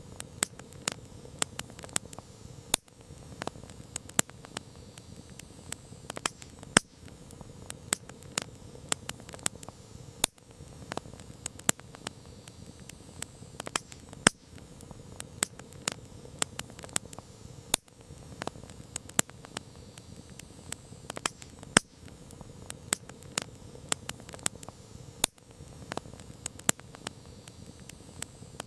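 Wood campfire crackling: irregular sharp pops and snaps, several a second, over a soft low rushing of the flames.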